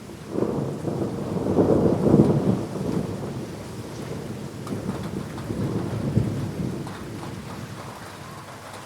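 A thunderclap that starts suddenly about half a second in and rumbles low, swelling again around six seconds before fading, over steady heavy rain.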